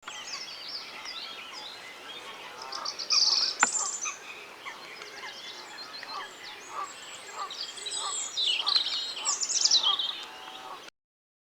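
Outdoor birdsong: several small birds singing high, quick phrases, with a short call repeated about twice a second in the second half. A single sharp click comes a few seconds in, and the sound cuts off abruptly near the end.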